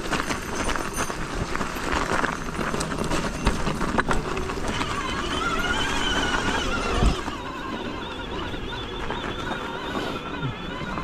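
Electric mountain bike being ridden over a snowy trail: steady tyre and trail noise with the bike rattling and knocking over bumps. A wavering whine rises and falls for about two seconds around the middle, then the noise drops a little.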